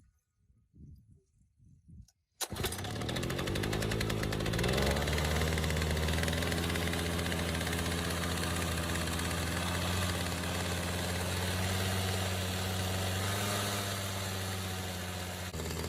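Robin engine of a restored MEIWA earth compactor starting: it catches suddenly about two and a half seconds in, rises in pitch over the next two seconds, then settles into a steady run.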